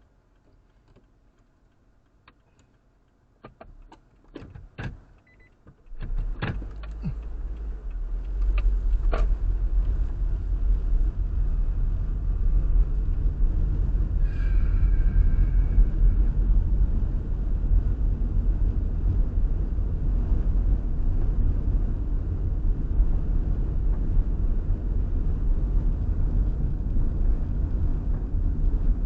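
A few sharp clicks and knocks, then about six seconds in a steady low rumble of a car on the move sets in and continues.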